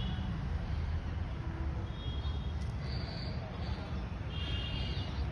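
A bird calling in short, buzzy high notes several times over a steady low rumble.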